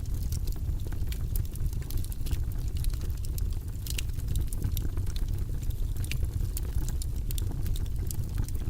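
Wood fire crackling, with irregular sharp pops and snaps of burning logs over a steady low rumble of the flames.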